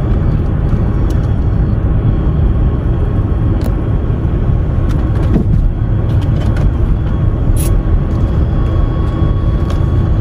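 Steady road and engine rumble heard from inside a moving car, with a few light clicks and rattles scattered through it.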